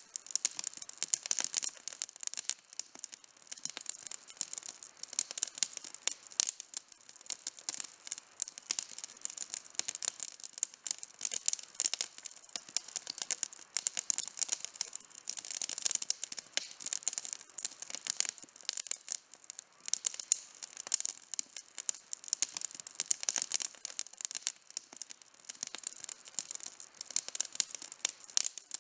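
Wood campfire burning, crackling and popping: a dense, continuous stream of sharp, mostly high-pitched snaps.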